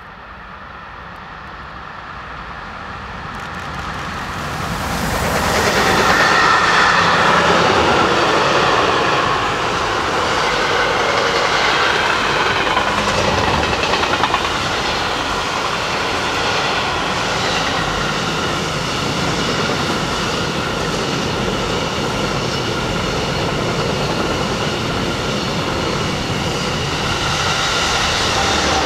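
A train approaching, growing louder over the first five or six seconds, then running close past for over twenty seconds with a steady rumble and clatter of wheels on the rails.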